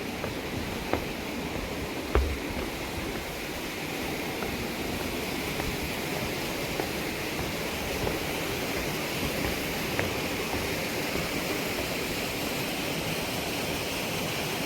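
Mountain stream rushing in a steady wash of water, with a few short knocks, the loudest about two seconds in.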